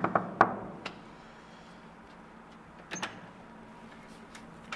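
Knocking on a door: a quick run of sharp knocks at the start and one more about a second in, then a couple of lighter clicks about three seconds in and again near the end.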